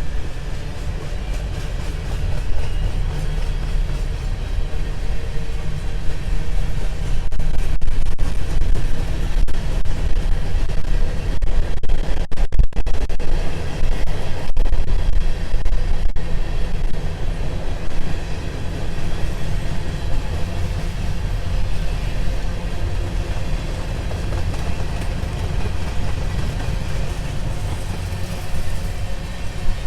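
Empty grain hopper cars of a CSX freight train rolling past: a steady low rumble of steel wheels on rail, loudest in the middle stretch.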